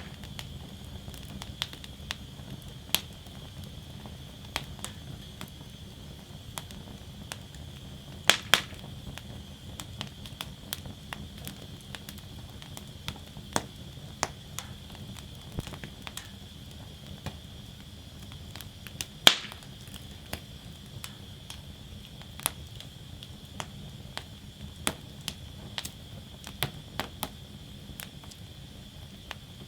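Wood fire burning in a fire basket, crackling with irregular sharp pops and snaps over a steady low rumble of flame. Two louder pops come about 8 seconds in and about 19 seconds in.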